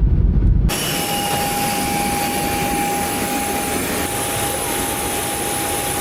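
Jet airliner noise: a deep low rumble, then after a sudden cut near the start, a steady hiss with a constant whine and a faint high whistle above it.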